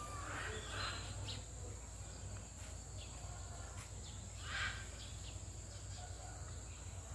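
Outdoor background noise: a steady high insect drone over a low rumble, with two short chirps or calls, one just after the start and one about halfway.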